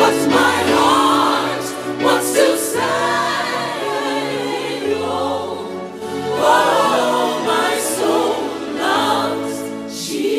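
Gospel choir singing over music.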